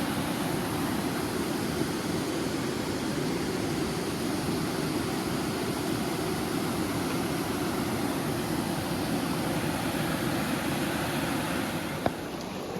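Steady rush of a waterfall, with one short click near the end.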